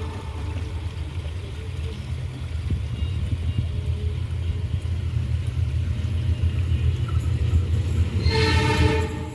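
Passing train's steady low rumble, with the locomotive's horn sounding for about a second near the end as a warning at a level crossing.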